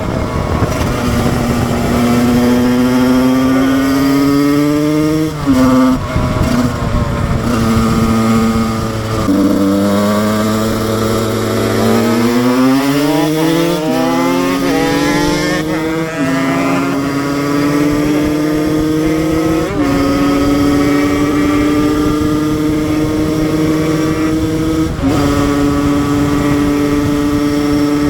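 Husqvarna SM 125 two-stroke single-cylinder engine pulling hard, its pitch climbing and then dropping at each gear change, several shifts in all. Near the middle it eases off with the pitch falling, then revs back up and climbs through the gears again.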